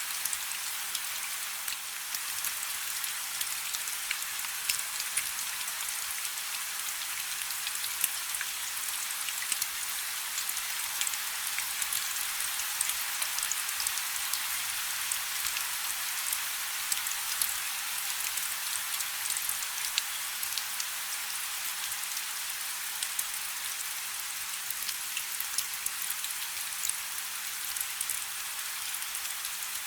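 Steady rain falling on a river: a dense, even hiss of drops striking the water, speckled with many small crisp drop impacts.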